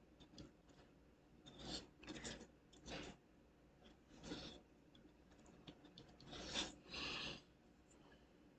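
Quiet crafting handling noises: about six short, soft scrapes with scattered light clicks, as small wooden craft sticks are handled.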